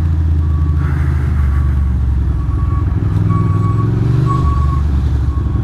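Ducati Monster's L-twin engine running steadily at low revs, with a short high beep at one pitch repeating every half second or so, from about half a second in.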